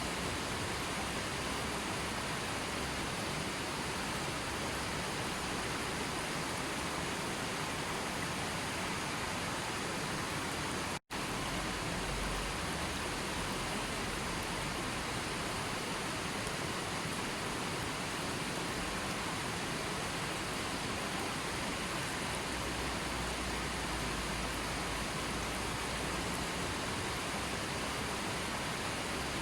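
Steady, even rushing of water, like rain or a waterfall, with no music or birds, that cuts out for an instant about eleven seconds in, where the recording loops.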